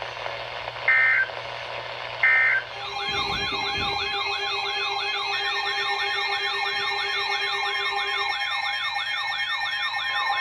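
Two short high beeps, then a yelp-style electronic siren alert sound sweeping rapidly up and down, about three times a second, over steady tones, starting about three seconds in.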